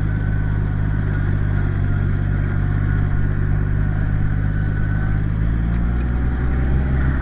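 1968 Minneapolis-Moline G900 LP tractor's propane-fuelled six-cylinder engine running steadily, warmed up. Its low note shifts slightly about five and a half seconds in.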